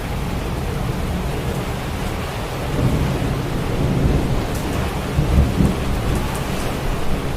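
Heavy rain falling steadily, with a low roll of thunder that swells from about three seconds in and peaks around five to six seconds.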